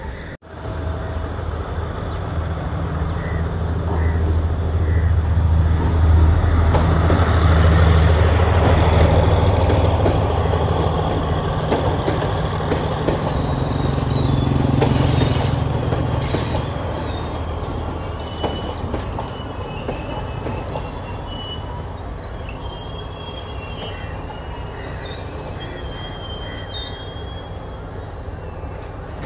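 Passenger train passing on a curve. A low diesel engine drone swells over the first several seconds and then fades, and from about halfway on the wheels squeal thinly and high against the rails on the bend.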